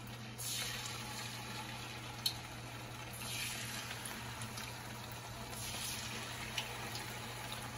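Coated chicken pieces dropped one at a time into hot frying oil, each setting off a burst of sizzling that swells and fades; three such bursts, with a couple of sharp clicks between them.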